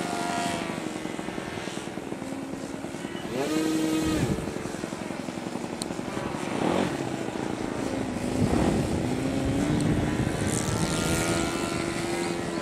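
Engine of a radio-controlled S-bach aerobatic model airplane running in flight, its propeller note rising and falling with throttle and passes. It climbs sharply about three seconds in, drops back a second later, sweeps up and down through the middle, and rises and holds near the end.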